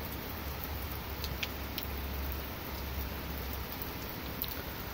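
Heavy rain falling steadily during a thunderstorm, a constant hiss with a few faint ticks of drops.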